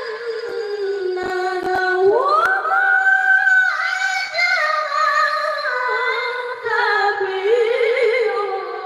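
Solo Qur'an recitation in the melodic, drawn-out style, with no accompaniment: one high voice holds a long ornamented note, rises sharply about two seconds in, then steps back down in wavering turns.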